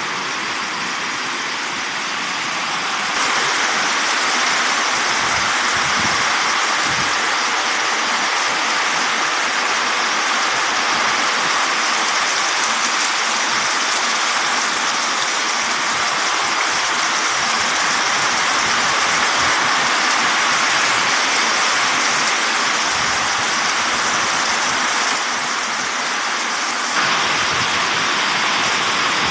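Heavy rain pouring down in a windy rainstorm, a steady rushing noise that grows louder about three seconds in.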